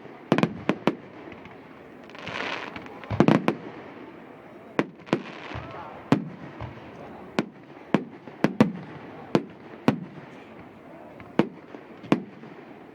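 Fireworks going off: a string of sharp, irregularly spaced bangs, with a hissing rush about two seconds in followed by a quick cluster of bangs.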